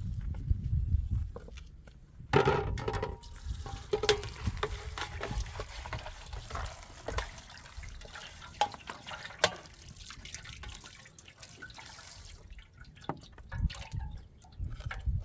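Water pouring and splashing with scattered drips and clicks, starting about two seconds in and thinning out near the end.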